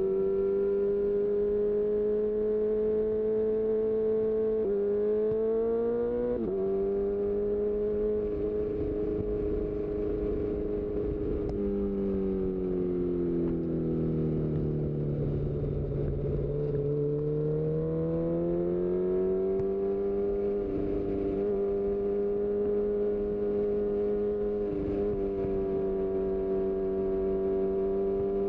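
2018 Honda CB1000R's inline-four engine through a full-system Black Widow exhaust, running at a steady cruise under a rider's wind rush. The engine note breaks and shifts briefly twice in the first seven seconds, falls away from about twelve seconds in as the revs drop, and climbs back up again around seventeen seconds.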